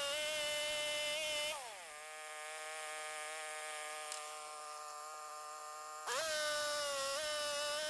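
Portable sawmill's engine running at a steady high pitch. About a second and a half in, it slows to a lower, quieter pitch, then speeds back up near six seconds.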